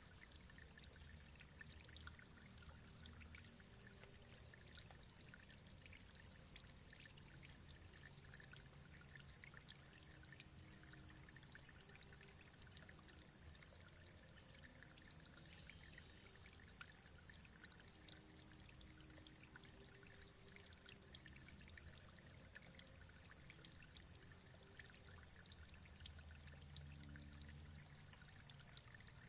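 Faint, steady running water trickling and pouring, with many small droplet splashes. A thin, steady high tone runs beneath it.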